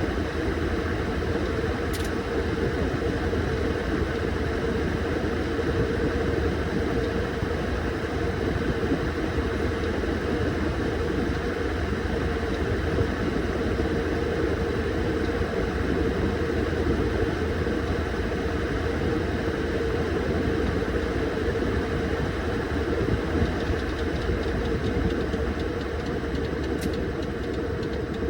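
Washing machine running through its cycle, a steady motor hum with a constant low rumble.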